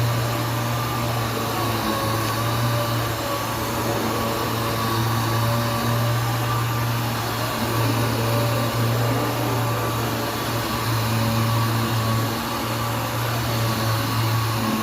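Electric sanding machine running steadily on a car's epoxy-primed side panel: a constant hum with a higher whine over the hiss of the abrasive.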